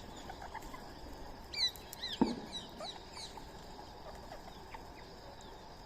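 A run of short, high chirping calls from a small animal, bunched from about a second and a half in to just past three seconds, with one sharp knock a little after two seconds.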